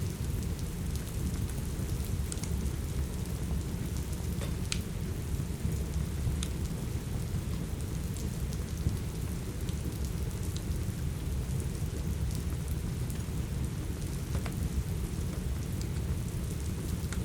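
Steady rain with a deep low rumble, overlaid by scattered sharp pops and crackles from a wood fire in a fireplace.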